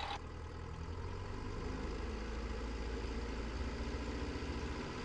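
Cessna 172's piston engine running steadily at 1700 RPM during the pre-takeoff run-up, before the magneto check.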